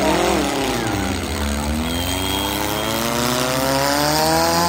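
Demolition-derby car engines running hard. One revs up and drops back right at the start, then an engine climbs steadily in pitch over the last three seconds as it is held on the throttle, over a steady low rumble.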